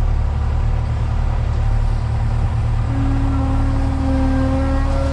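Heavy machinery engine running steadily with a deep, constant hum; a steady higher whine joins about three seconds in.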